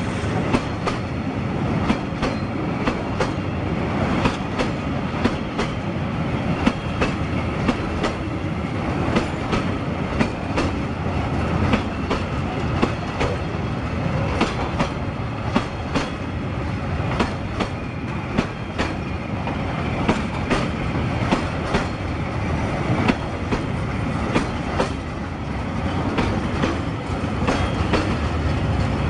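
Loaded open freight wagons rolling past: a steady rumble of wheels on rail, with frequent sharp clacks as the wheels cross the rail joints.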